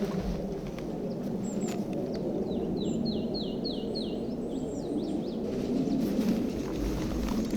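A small songbird singing a quick run of about six descending high notes, with a few other thin chirps, over a steady low rushing background noise.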